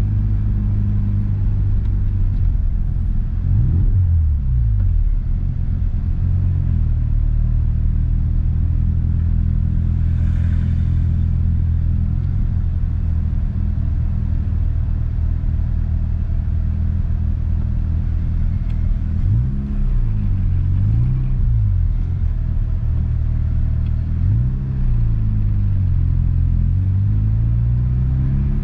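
Mazda RX-7 FD's twin-rotor 13B-REW rotary engine heard from inside the cabin, running steadily. Its pitch rises and falls briefly a few seconds in, twice in quick succession about two-thirds of the way through, once more soon after, and climbs again near the end.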